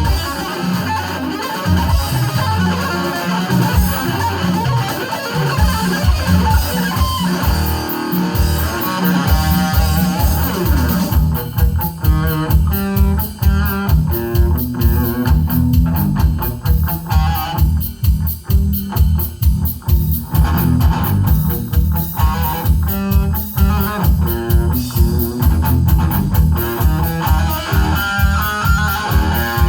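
Live instrumental rock played loudly: fast, dense shred electric-guitar lead over bass guitar and a steady, rapid low beat.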